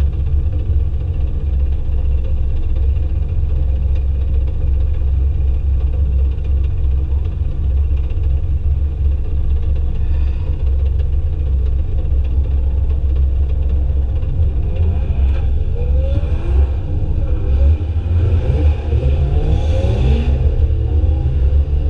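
Drift car engines revving, the pitch repeatedly rising and falling in the second half, over a steady low rumble. A short rush of noise comes near the end.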